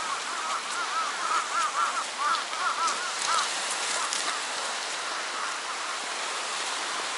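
Steady wash of sea surf, with a quick run of short, high, arching bird calls over it for the first three and a half seconds or so.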